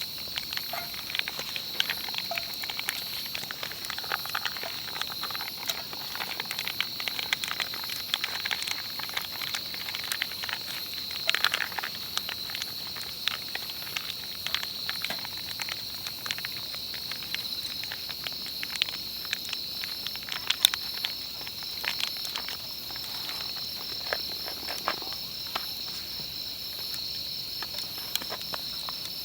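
A steady high-pitched chorus of late-summer insects trilling, with scattered sharp clicks and crackles throughout.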